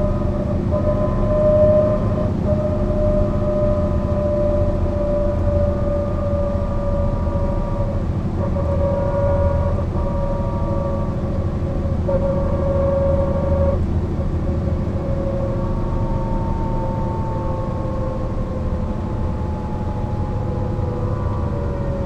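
Mercedes-Benz O 405 NÜ bus under way: the diesel engine rumbles steadily while a drivetrain whine sings over it, falling slowly in pitch.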